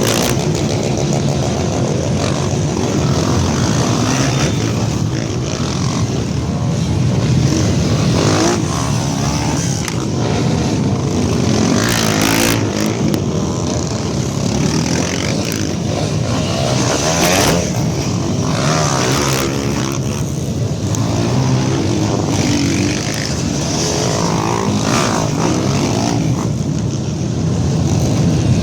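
Many off-road trail motorcycle engines revving and accelerating away one after another, their pitch rising and falling over and over as bikes pass.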